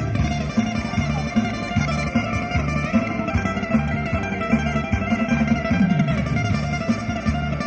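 Guitar music: plucked guitar playing over a steady, repeating bass line.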